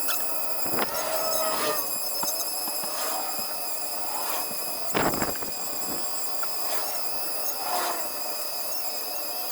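High-speed rotary tool (Dremel-type) with a weld-cutting bit grinding into the weld around a welded-in bolt: a steady high-pitched whine with repeated squealing screeches of the bit against the steel. A sharp knock about five seconds in is the loudest moment.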